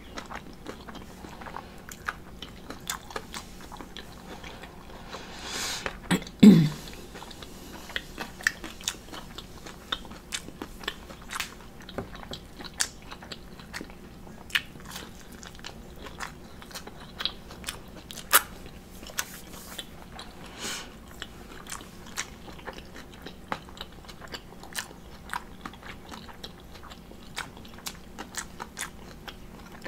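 Close-miked chewing and biting of waffle and leftover omelet: frequent crisp crunches and wet mouth clicks, with a short low vocal sound falling in pitch about six seconds in.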